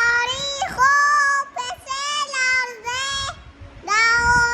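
A high voice singing a melody in long held notes, with short breaks between phrases.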